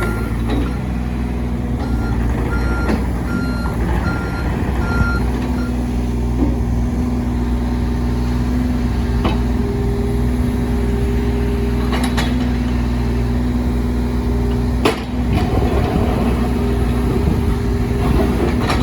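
John Deere 35G compact excavator's diesel engine running steadily. Its travel alarm beeps a little faster than once a second at the start and again for a few seconds, while the machine moves. A few sharp knocks come later.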